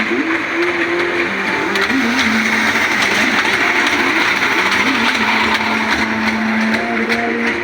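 Train running: a steady, loud rushing noise with faint wavering whine tones underneath.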